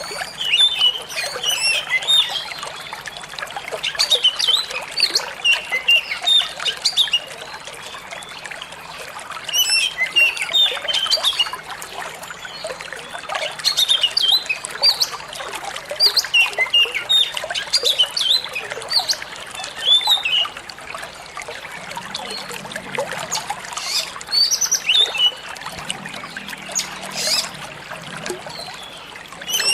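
Oriental magpie-robin singing in bursts of quick, varied chirps and whistles every few seconds, over a steady trickle of flowing water.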